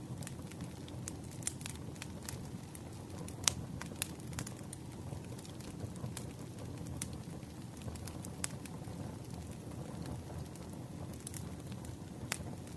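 Wood campfire crackling: irregular sharp pops and snaps over a low steady rumble of burning logs.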